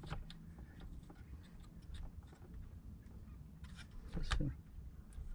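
Faint scrapes and light clicks of the shower pump's motor being turned over by hand with its power off, with a brief louder knock about four seconds in. The pump turns freely, with no grinding.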